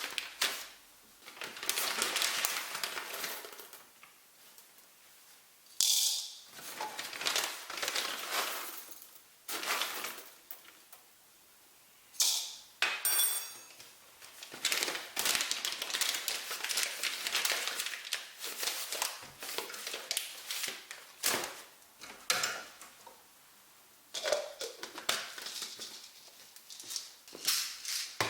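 Stop-start handling sounds of household objects: rustling and scraping with sharp clicks and knocks, and one brief ringing clink like china or glass about halfway through.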